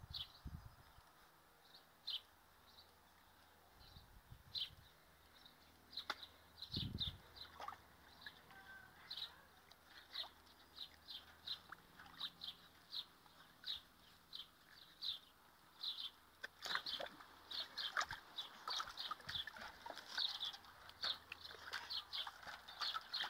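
A small bird chirping over and over, short high notes about twice a second. From about two-thirds of the way in, water splashes and sloshes in a metal tub as a springer spaniel paws and bites at the toys floating in it.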